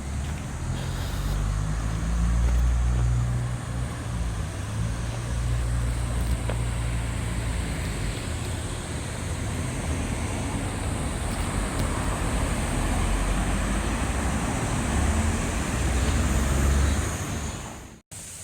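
Motor vehicle driving: a low engine drone with road noise, swelling and easing, that cuts off suddenly near the end.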